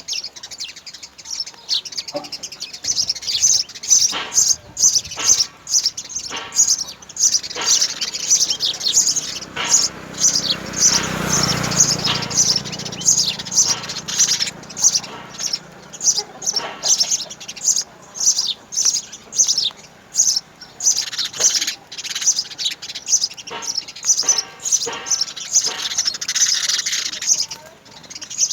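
House sparrows chirping at the nest: rapid, high-pitched chirps, many a second, without pause. A low rumbling noise swells and fades about ten to thirteen seconds in.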